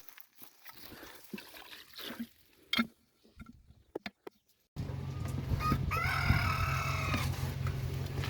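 A rooster crowing once, a call about a second and a half long, roughly six seconds in, over a steady low hum that starts abruptly nearly five seconds in; before that only a few faint scattered taps.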